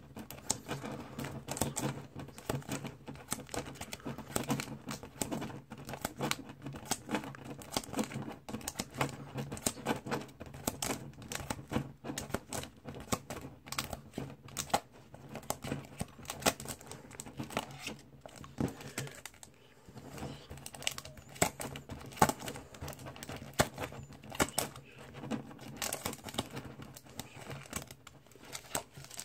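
Card packs and their plastic wrappers being handled: crinkling, tearing and a dense run of small clicks and taps, over a low steady hum.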